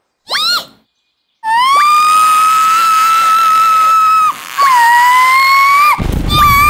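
High whistle-like tones in a cartoon soundtrack: a short rising chirp, then two long held notes, the second dipping at its start and sliding up at its end. A low rumbling noise comes in about six seconds in.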